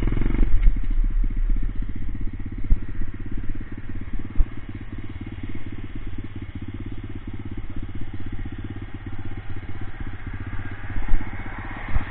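A 125cc pit bike's single-cylinder four-stroke engine idling with a steady, fast beat. It is a little louder for the first couple of seconds, then settles, with a single knock near the end.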